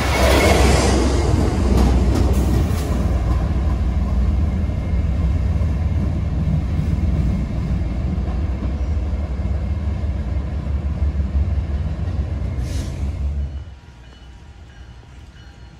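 MBTA commuter train running past close by, a loud rush of cars and wheels at first, then a steady low rumble as it draws away. The sound cuts off suddenly about thirteen and a half seconds in, leaving a much quieter background.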